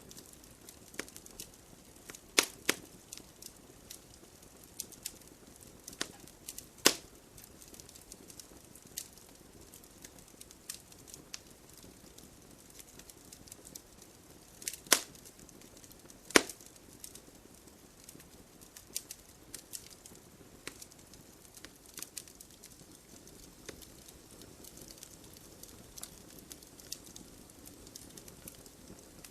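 Wood fire in a fireplace, logs burning with a steady crackle of small pops and a few louder snaps, the loudest about a third and halfway through.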